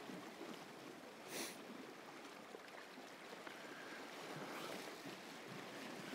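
Faint sea waves washing against the shore, with one brief louder wash about a second and a half in.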